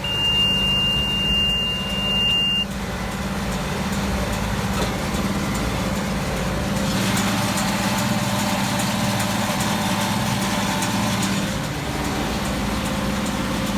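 IH 1086 tractor's six-cylinder turbo diesel running steadily under load while pulling a John Deere 567 round baler in hay. A steady high beep sounds for about the first two and a half seconds, and the baler's rattle and hiss grow louder for a few seconds in the middle.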